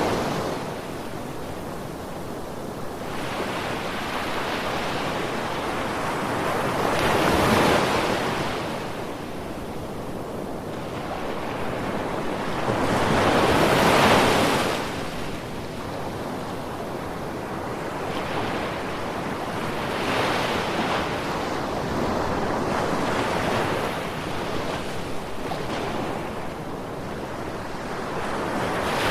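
Ocean waves breaking and washing onto a beach, a steady rush of surf with a larger wave swelling in about every six or seven seconds.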